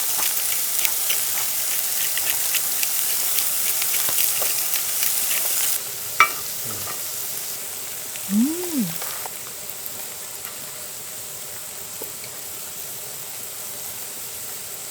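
Beef sizzling and crackling in its fat on a hot griddle pan whose burner has just been turned off. The sizzle drops suddenly to a quieter level about six seconds in, with a sharp click just after. A short rising-and-falling tone comes near the middle.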